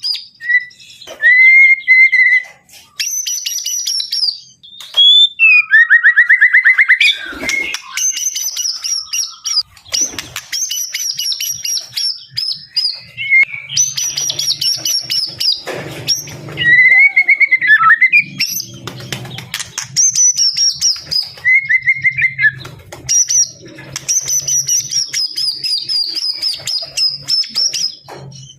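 Male white-rumped shama singing in full voice: a long series of varied phrases of clear whistles, fast high trills and chattering runs, separated by short pauses.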